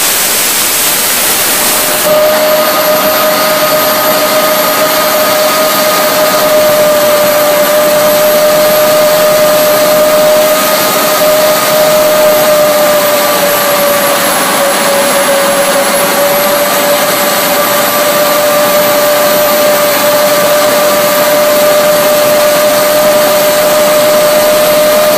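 Home-built turbojet engine with an annular combustor running hard: a loud, steady rush of air and combustion with a constant whine over it. The rush gets a little louder about two seconds in, and the whine dips slightly in pitch about two-thirds of the way through, then recovers.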